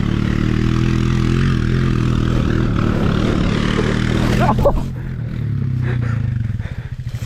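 Honda CRF70 pit bike's small four-stroke single-cylinder engine running at steady revs under way, then backing off about five seconds in. Near the end it drops to a low, chugging idle with each firing pulse heard separately.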